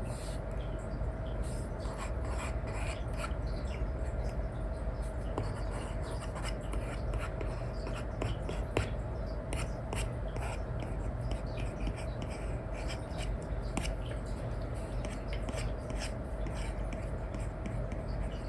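Stylus nib scratching and tapping on a paper-like matte screen film, in many short, irregular strokes over a steady hiss and hum.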